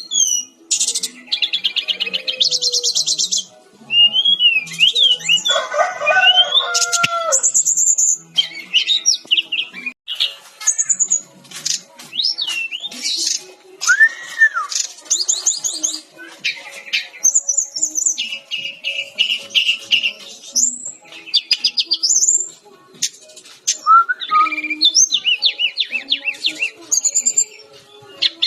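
Sikatan-rimba dada-coklat (brown-chested jungle flycatcher) singing a long, varied song in quick succession: fast high trills, clear sliding whistles and chattering phrases. A lower, fuller call comes in about six seconds in.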